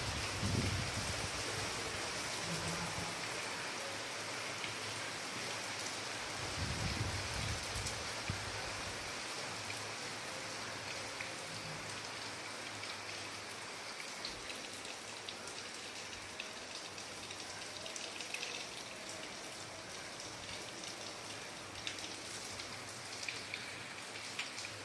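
Steady rain falling, with scattered individual drops ticking, easing slightly in loudness over time.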